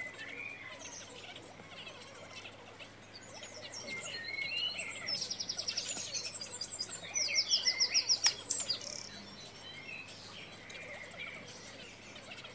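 Birds chirping and singing, with two rapid trills about five and seven seconds in, the second the loudest, and a single sharp click about eight seconds in.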